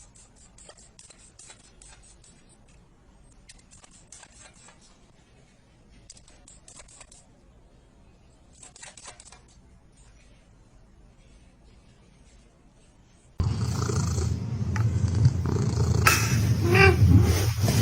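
Faint clicks and rustling, then, about two-thirds of the way in, a cat purring loudly close to the microphone, with short voice-like sounds on top near the end.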